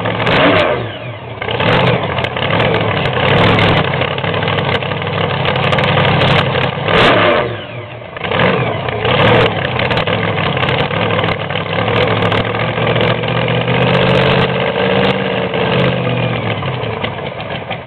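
Alcohol-burning funny car drag-racing engine running with a loud cackle, blipped several times so its pitch jumps up and falls back between stretches of rough running.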